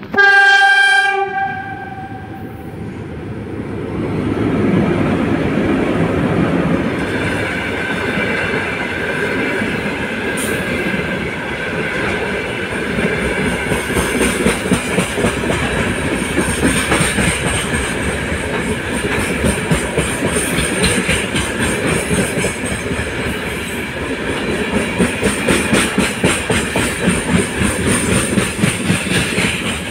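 VL10U electric locomotive sounds one horn blast of about a second, then passes at the head of a freight train. The rake of gondola wagons rolls by with a steady rumble, and the wheels clatter rhythmically over the rail joints near the end.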